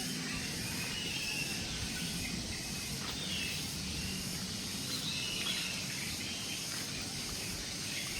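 Outdoor ambience of steady hiss with scattered faint bird chirps.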